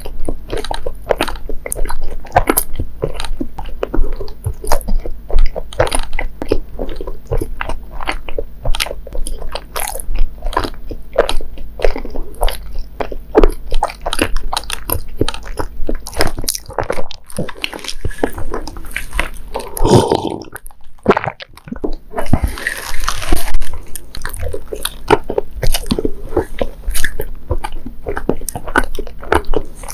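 Close-miked wet chewing of soft, sticky mochi rice-cake sweets: a steady run of mouth clicks and smacks. About two-thirds of the way through there is a short rustle.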